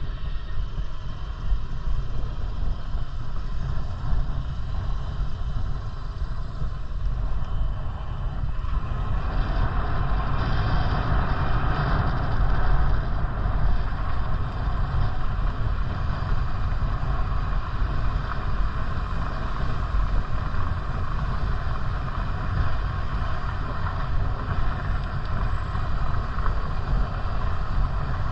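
Steady low wind rumble and road noise while cycling, with a hissing rush that swells from about nine seconds in and eases off a few seconds later.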